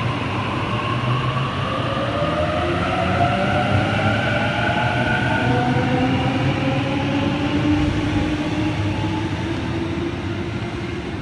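Series 1 Waratah electric train pulling away, its traction whine gliding slowly upward in pitch as it accelerates over a rumble of wheels on rail. The sound eases off near the end.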